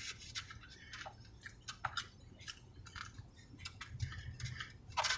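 A person chewing a mouthful of food close to the microphone: many small, irregular wet mouth clicks and smacks.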